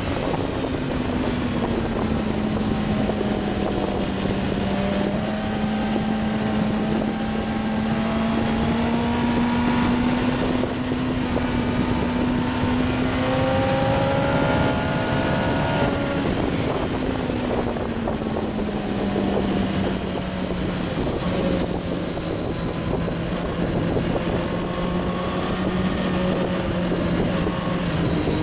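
Onboard sound of a Kawasaki ZX-9R's inline-four engine under sustained throttle, its note climbing slowly for about fifteen seconds, then dropping as the throttle eases and holding steady, under heavy wind rush on the microphone. Fainter engine notes rise and fall in the background midway through.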